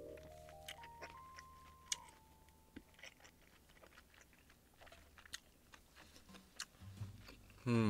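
A person chewing and biting food close to the microphone, with small crunches, clicks and mouth sounds. A short rising run of tones fades out in the first couple of seconds, and a brief loud falling-pitch sound comes near the end.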